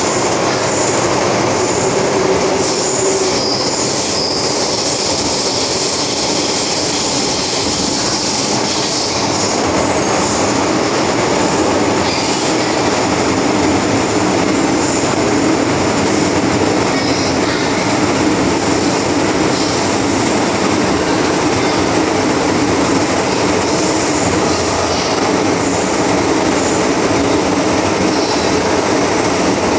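MTR M-Train metro train running at speed, with a steady rumble of wheels on rail. High-pitched squealing tones come and go over the first third.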